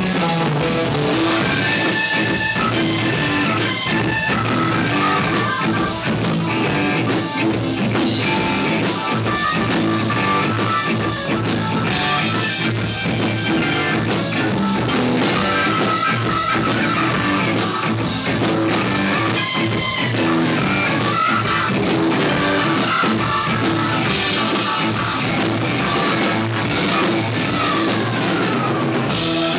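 Loud rock music from a band: guitar over a drum kit, playing continuously.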